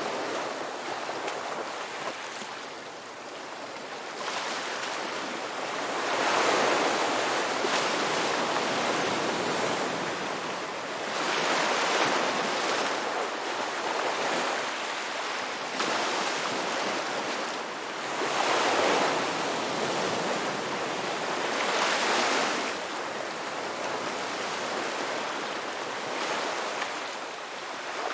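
Ocean waves breaking on a rocky beach, a steady hiss of surf that swells and fades as each wave comes in, about every four to six seconds.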